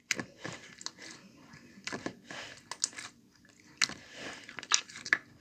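Clear slime being played with, giving irregular sharp clicks and short crackling squishes.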